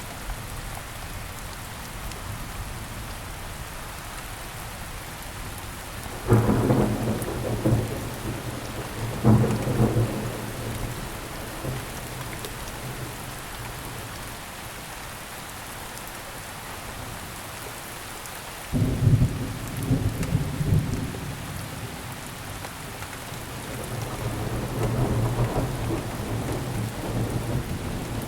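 Steady rain with thunder. A sudden crack of thunder about six seconds in, another near nine seconds and a third near nineteen seconds, each rolling away over a second or two. A slower rumble builds near the end.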